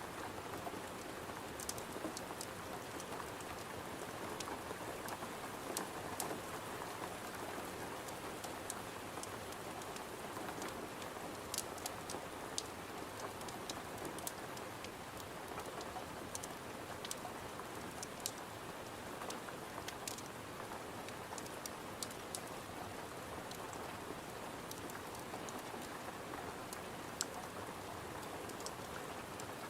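Steady rain falling, with irregular sharp ticks scattered through it.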